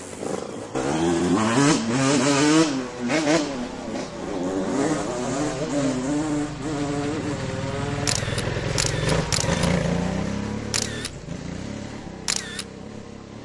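Husqvarna 701 single-cylinder motorcycle engine running under way, its pitch rising and falling with the throttle. From about eight seconds in, several camera shutter clicks sound.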